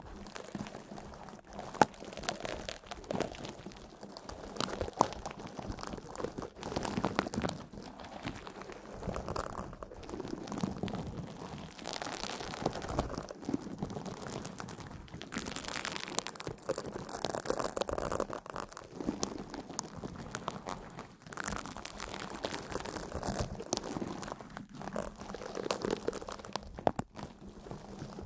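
Close, continuous crunching and crinkling: a dense run of small crisp clicks that swells and fades in waves every couple of seconds.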